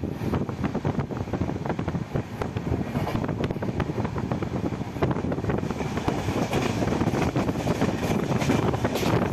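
Passenger train running at speed: a steady rumble with constant rattling from the wheels and carriage, with wind buffeting the microphone.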